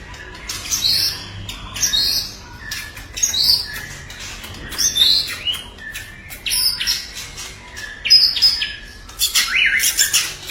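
White-rumped shama (murai batu) singing a string of sharp, rising whistled notes about every second or so, with a faster run of notes near the end; aggressive song of a bird worked up to fight a rival.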